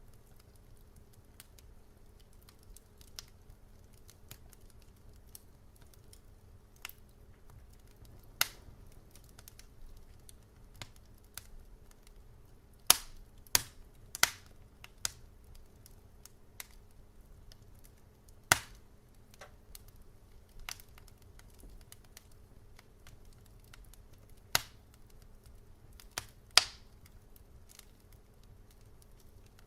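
Wood fire crackling in a fireplace: irregular sharp pops and snaps over a faint low hiss, with a cluster of loud pops about halfway through and a few more near the end.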